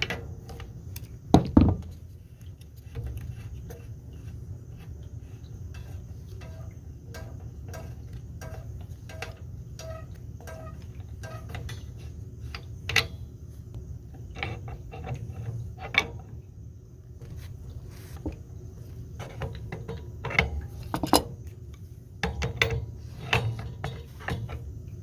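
Hand tools working the water heater's gas line connection: metal clinks and knocks, with a run of light evenly spaced clicks a few seconds in, over a steady low hum.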